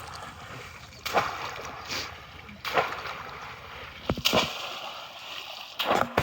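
Regular splashes in water, four in all, one about every second and a half, over a steady low background.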